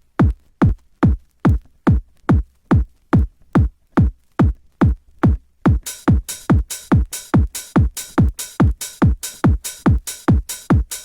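Intro of a 90s Eurodance track: a four-on-the-floor electronic kick drum alone, a little over two beats a second, each kick dropping in pitch. About six seconds in, bright hi-hats and a high synth layer join the beat.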